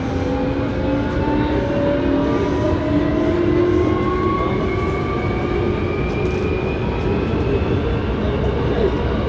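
Hankyu 7300 series electric train accelerating, heard from inside a car noted for its unusual running noise: several layered whining tones from the traction drive rise steadily in pitch over the rumble of the wheels on the rails.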